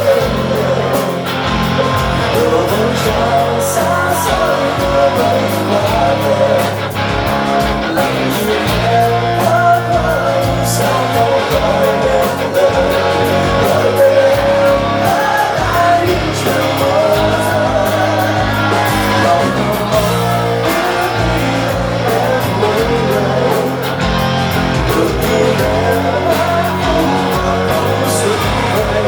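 Live rock band playing a song: guitar over bass and a steady drum beat.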